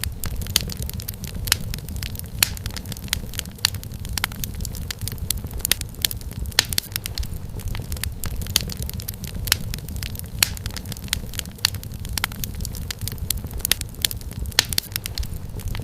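Wood fire crackling: irregular sharp snaps and pops from burning firewood over a steady low rumble of flame.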